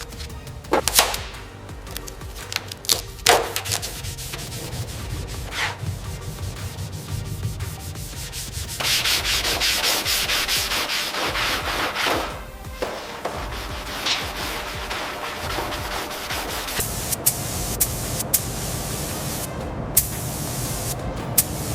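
Sanding: a rasping, rubbing scrape with scattered clicks and knocks. It turns louder and hissier for about three seconds near the middle, then settles into a steadier rub with sharp ticks.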